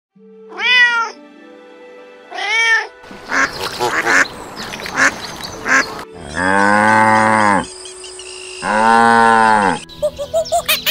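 A cat meowing twice, followed by a few seconds of rough, raspy calls. Then a cow mooing twice in long, low calls. Rapid chirping starts near the end.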